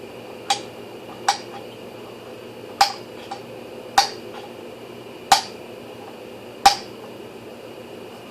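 Six sharp clicks or knocks of hard objects, irregularly spaced about a second or so apart, over a faint steady hum with a thin high tone.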